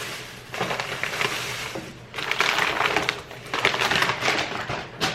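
Packaging crinkling and rustling as purchases are handled and unwrapped, in about three bursts of a second or so each.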